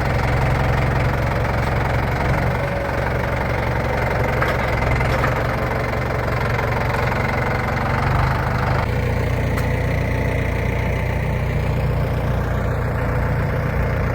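An engine idling steadily nearby, an even low hum that holds the same throughout.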